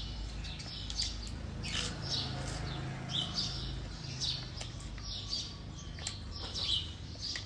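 Small birds chirping repeatedly, short quick falling chirps a few times a second, over a low steady rumble.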